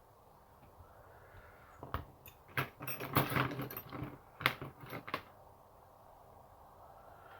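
A burst of small clicks, taps and rattles from hand tools and small phone parts being handled on the workbench. It starts about two seconds in, is densest a little past the middle with one sharper tap, and stops about five seconds in.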